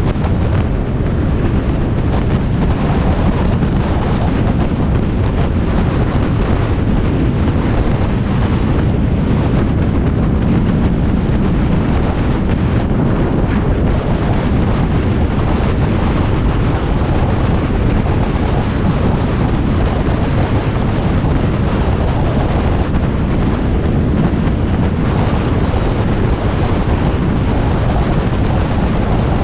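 Steady wind buffeting the microphone of a moving motorcycle, with the Harley-Davidson Iron 1200's air-cooled V-twin running underneath.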